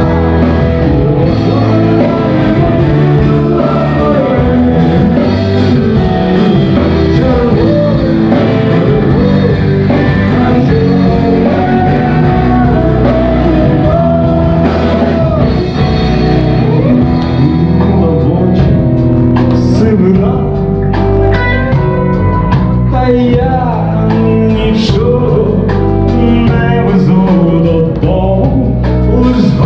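Live rock music: a band playing with guitar and singing, loud and continuous.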